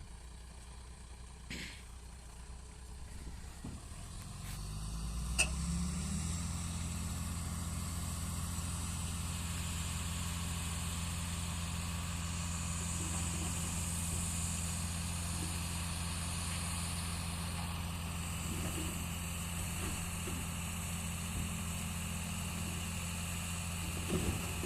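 A heavy vehicle's diesel engine coming up in level about four to six seconds in, then running steadily at a constant low pitch. A brief sharp click near the start of the steady running.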